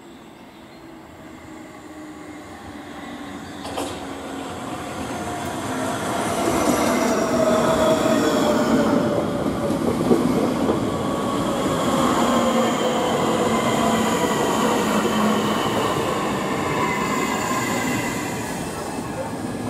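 An electric multiple-unit passenger train approaching and running along the platform, growing louder over the first several seconds. Over the wheel and rail noise, several whining tones fall slowly and steadily in pitch, and there is a single sharp click about four seconds in.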